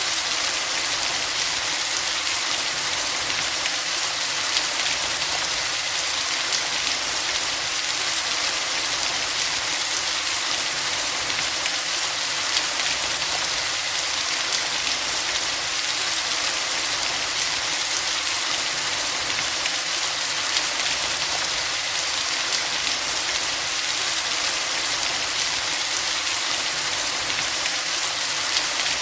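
Steady, heavy rainfall: a dense, even hiss of rain with fine patter of drops striking surfaces, unchanging throughout.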